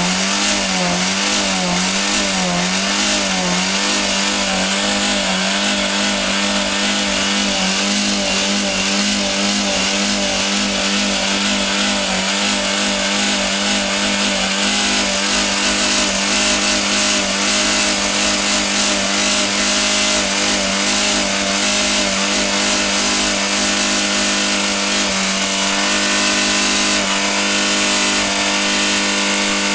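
Škoda car engine running flat out with a dry cooling system and minimal oil, run hard to destroy it. The revs pulse up and down about twice a second at first, then hold at a steady high pitch.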